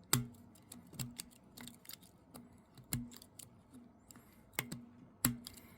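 A razor knife working at the soldered metal battery tab of a Ford tire-pressure sensor, making irregular sharp clicks and small snaps.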